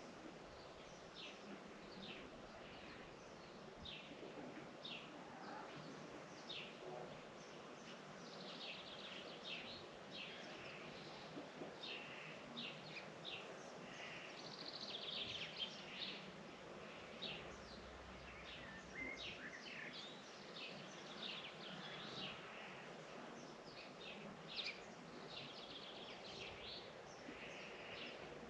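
Many small birds chirping and calling, a dense scatter of short, high, downward-sliding chirps that grows busier from about a third of the way in.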